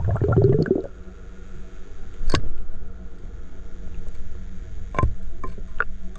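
Stream water gurgling and sloshing around the microphone, with a rumbling surge in the first second and three sharp clicks or knocks later on.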